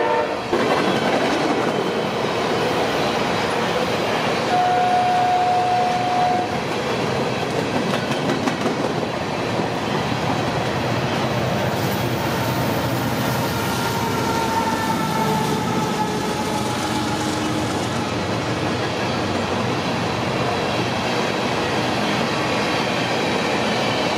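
Norfolk Southern freight train rolling past, its cars making a steady rumble and clickety-clack of wheels over rail joints. The locomotive horn cuts off just at the start, and a brief steady high tone is heard about five seconds in.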